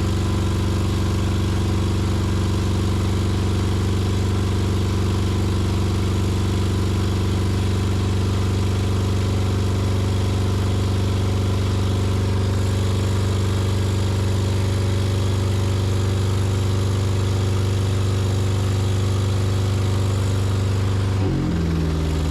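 Acura K24A2 2.4-litre inline-four running steadily at a high idle of about 3,000 rpm, too high for a proper idle while still untuned. About 21 seconds in it is switched off and its pitch falls as it winds down.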